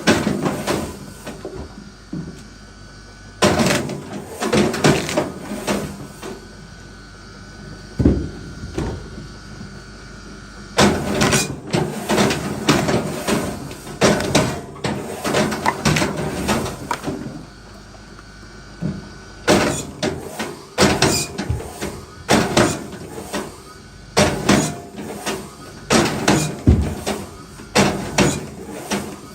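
Wood knocking and clattering in bursts of rapid strikes, with quieter stretches between the bursts.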